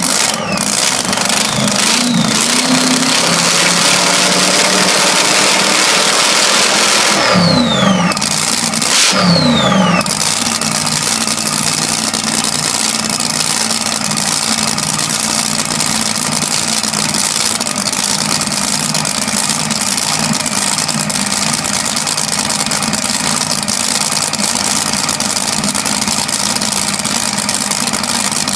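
Hot rod or drag car engine idling loudly, revved up and back down twice about eight seconds in, then settling into an idle that pulses regularly.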